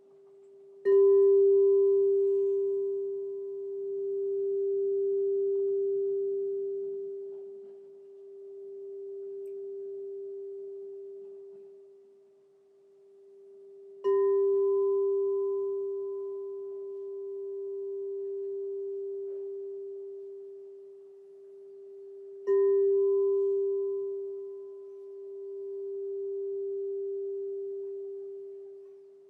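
Crystal singing bowl struck three times, each strike ringing on as one pure, steady tone that slowly swells and fades in level, with a faint higher overtone dying away sooner.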